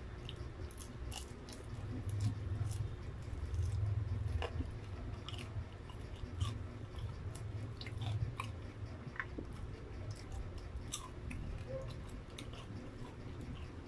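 Close-up chewing of battered, deep-fried chicken proben, with many small scattered crunches and mouth clicks.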